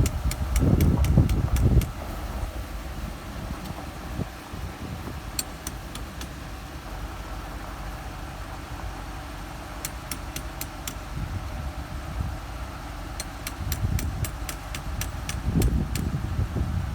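An engine running steadily, swelling into heavy low rumble near the start and again near the end, with runs of sharp, quick, evenly spaced clicks.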